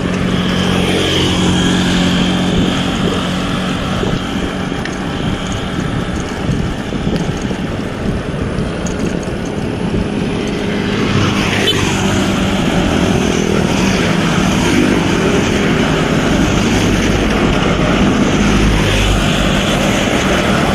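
Road traffic: motor vehicle engines running steadily, with one vehicle passing close about eleven seconds in.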